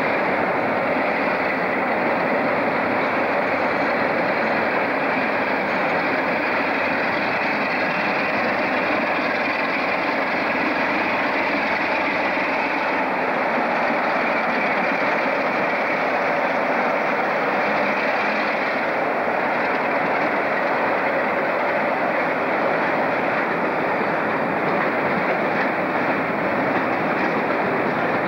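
Train noise at a station: a steady, unbroken sound with no distinct beats, its high part fading about 18 seconds in.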